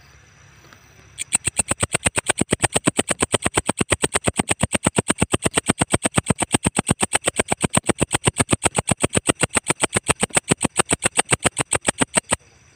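Walang ecek insect calling: a long train of rapid, evenly spaced, high-pitched pulses that starts about a second in and stops abruptly near the end, played as a masteran tutor song for songbirds.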